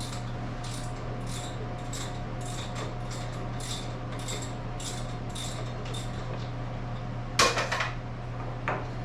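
Vintage Snap-on ratchet wrench clicking at about two to three clicks a second as a fastener on a milling machine's spindle is backed out, then a louder metallic clatter near the end and a smaller clink just after. A steady low hum sits underneath.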